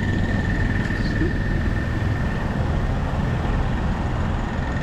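Low, steady rumble of street traffic, with a steady high insect trill running through it.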